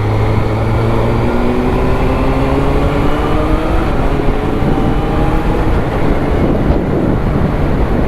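Kawasaki Ninja ZX-6R 636's inline-four engine pulling under load, its pitch rising steadily for about five seconds, over the rush of wind noise while riding.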